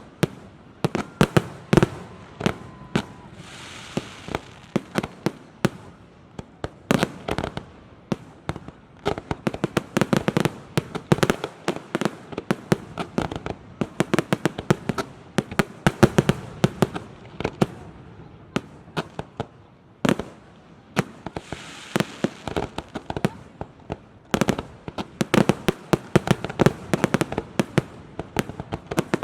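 Aerial fireworks display: a dense barrage of sharp bangs, several a second, with spells of hissing crackle about four seconds in and again around twenty-two seconds.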